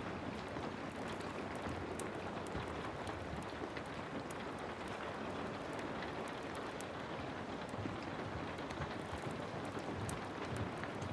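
Heavy rain falling steadily, with scattered sharp ticks over the dense hiss.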